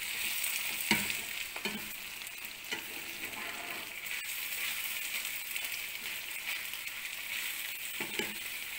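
Lamb liver and sliced onions sizzling steadily in a frying pan on low heat, while a utensil turns them, with a few sharp knocks against the pan.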